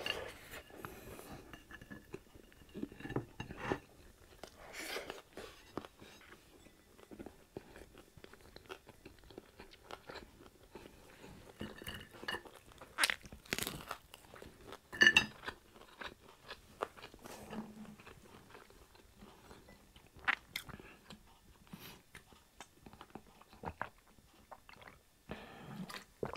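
A person chewing and crunching crispy fried pork chop, with irregular bites and crackling crunches throughout; the loudest is a sharp crunch about halfway through.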